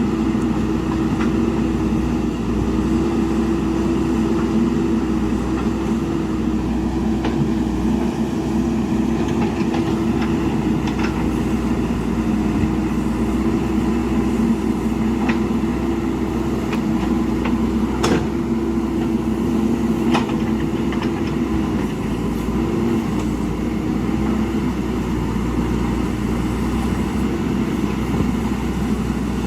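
JCB backhoe loader's diesel engine running steadily at work, with a few sharp knocks now and then.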